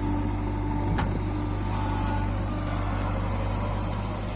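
Heavy diesel engine running steadily, as on a backhoe loader loading mud into a tractor trolley, with a single sharp knock about a second in.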